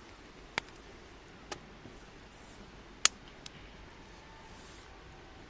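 Wood campfire crackling: a few sharp pops at irregular intervals, the loudest about three seconds in, over a faint steady background.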